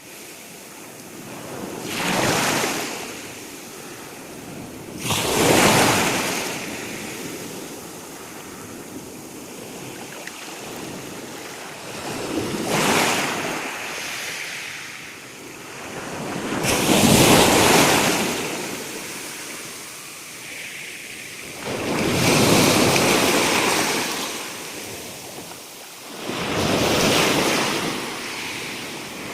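Sea waves breaking on the shore: a swell of surf rises and falls about every four to five seconds over a steady wash of water.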